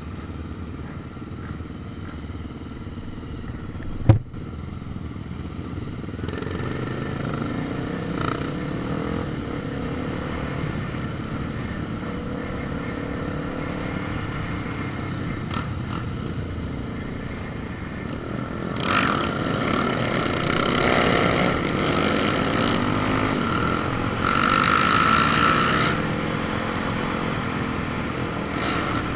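A motor vehicle running as it drives along, a steady low rumble, with a sharp knock about four seconds in. The sound grows louder twice later on, with a steady whine over the rumble.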